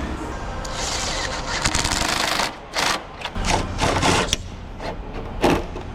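A small power tool, likely a cordless driver or ratchet, runs in a series of short, rattling bursts while fender bolts are run in. The bursts come after a short stretch of hiss.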